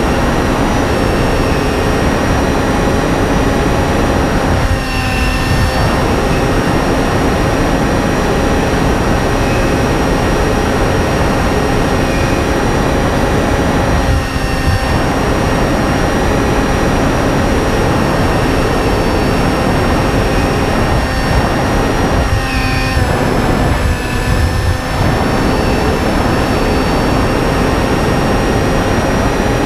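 Electric motor and propeller of a Finwing Penguin FPV model plane heard in flight, a steady whine over rushing air noise, with a few brief dips as the throttle eases back.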